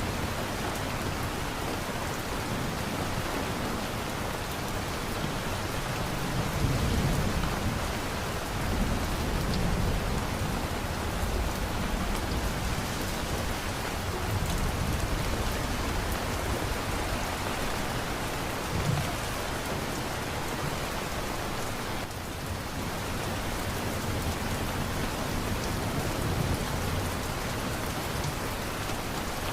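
Steady rain pouring down, with low rumbles of thunder swelling and fading several times.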